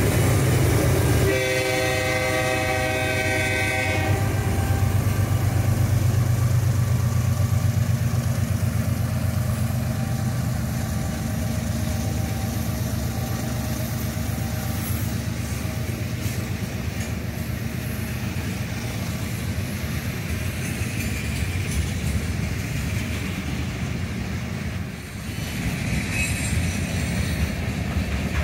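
A freight train's diesel locomotives pulling away, with one horn blast of about three seconds near the start, then the steady low rumble of the engines and the noise of the train moving on the rails.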